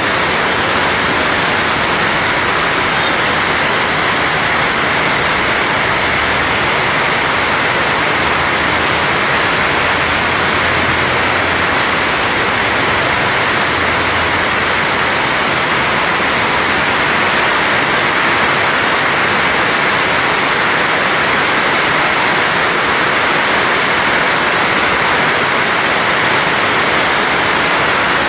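Heavy rain pouring down steadily: a loud, even hiss with no letup.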